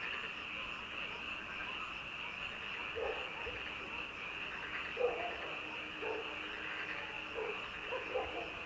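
A chorus of frogs at night: a steady, dense trilling chorus throughout, with single lower croaks standing out now and then from about three seconds in.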